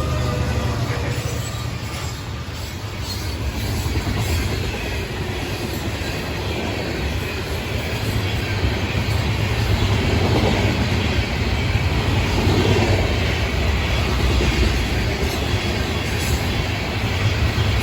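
Florida East Coast Railway freight train passing: the deep rumble of the locomotives and the steady noise of the rail cars rolling over the track, growing somewhat louder about halfway through.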